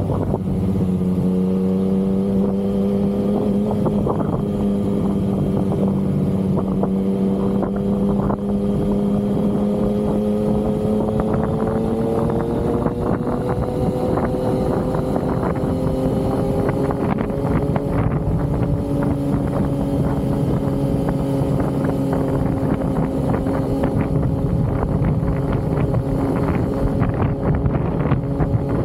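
Yamaha XSR900's inline three-cylinder engine running under steady throttle while riding, its pitch rising slowly over the first half and then holding level.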